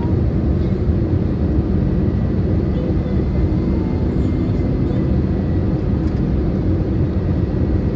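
Steady cabin noise inside an Airbus A320neo in flight: a constant deep rumble of engine and airflow heard from a window seat, with a faint steady tone above it.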